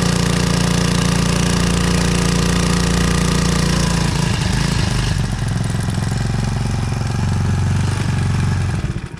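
Brand-new Hangkai 4 hp four-stroke outboard motor running in its first hour of break-in. It runs steadily, then about four seconds in it slows and runs less evenly, and it cuts off suddenly near the end.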